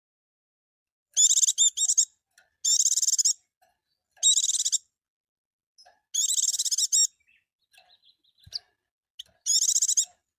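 White-eye (pleci) singing: five short bursts of high-pitched, rapid warbling song, each half a second to a second long, starting about a second in, with faint soft chips between the bursts.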